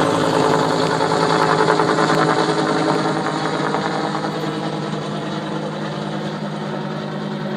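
Firefighting helicopter flying away, its rotor and engine sound fading from about three seconds in.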